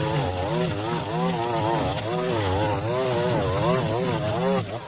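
Two-stroke chainsaw running, its engine pitch rising and falling over and over as the throttle is worked.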